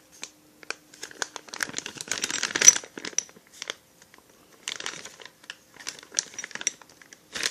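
Plastic parts bags crinkling and rustling as kit parts are unpacked, with scattered small clicks and taps. The rustling comes in two spells, the louder one about two seconds in.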